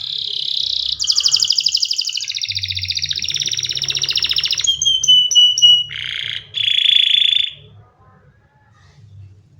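Domestic canary singing one long song phrase. It opens with a buzzy note, runs into a long fast trill, breaks into a few quick falling whistles, and ends with two buzzy notes about eight seconds in.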